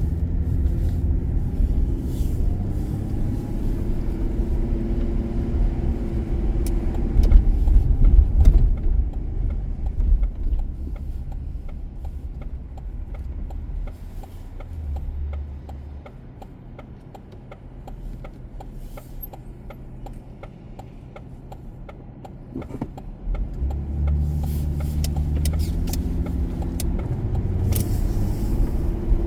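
A car driving in city traffic, with engine and tyre rumble. It eases off and runs quieter for a while partway through, then picks up again with a rising engine note as it accelerates, about three quarters of the way in.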